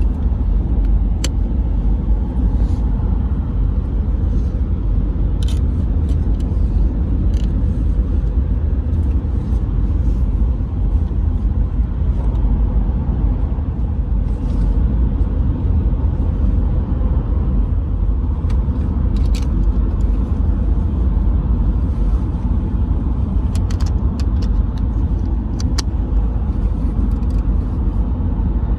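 Steady low rumble with scattered small clicks, a cluster of them a little over three quarters of the way through.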